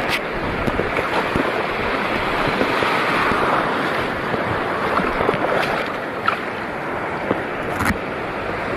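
Shallow seawater washing and lapping in a steady rush of water noise, with a few sharp splashes or knocks, one near the start and two in the last few seconds.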